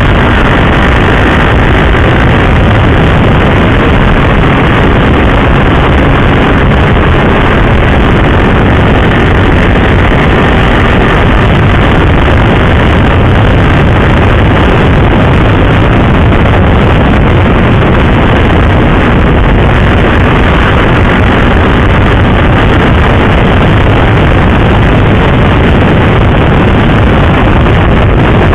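Motorcycle riding at speed, with heavy, steady wind buffeting on the microphone over the engine and road noise.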